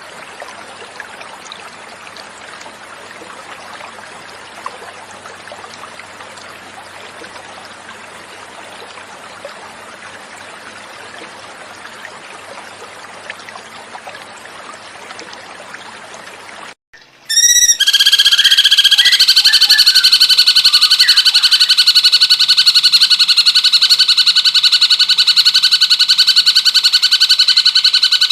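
Natural flowing water runs steadily for about seventeen seconds. After a brief gap, a much louder cucak cungkok bird recording comes in: a fast, rapidly pulsing trill held at a few steady pitches.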